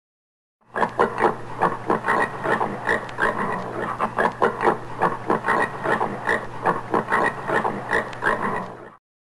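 Common warthog grunting in a rapid, steady series, about three or four grunts a second. It starts under a second in and stops abruptly near the end.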